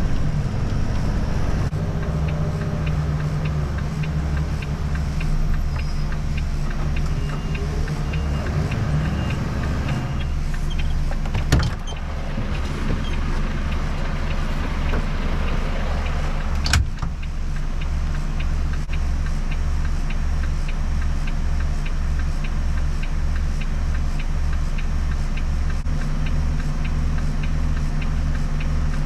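Volvo FE 320 lorry heard from inside the cab, its diesel engine running at low speed with a steady drone, a light regular ticking, and two sharp clicks partway through.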